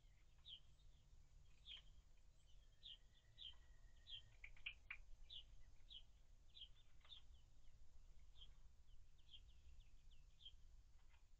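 Faint bird chirping: short high chirps repeating about twice a second, over a low steady rumble.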